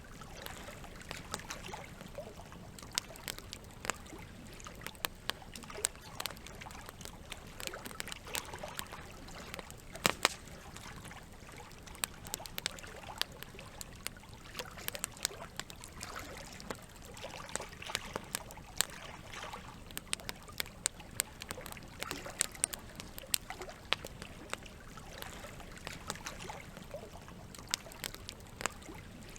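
Wood campfire crackling, with frequent irregular sharp pops, the loudest about ten seconds in, over a steady trickle of running water.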